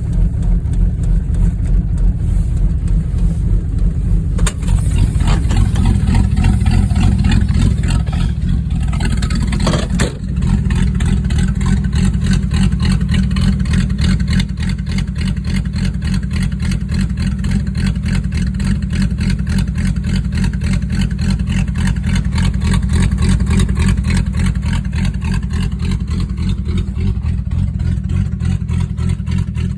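Ford 200 cubic-inch inline-six of a 1983 Mercury Marquis running just after a cold start. It gets louder and harsher from about five to ten seconds in, then settles into a steady, evenly pulsing idle that eases down a little after about fifteen seconds.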